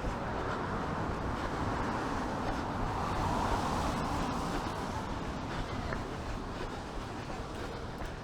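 A vehicle passing on a wet city street, its tyre hiss swelling to a peak about three seconds in and then fading, over steady traffic noise.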